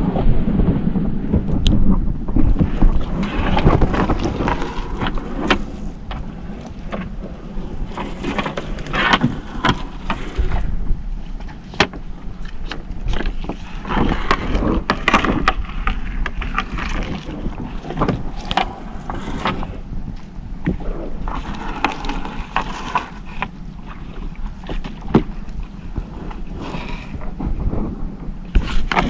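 Wind buffeting the microphone aboard a small fishing boat at sea, over a low steady rumble, with many irregular knocks and rattles as a blue swimming crab gill net is hauled in.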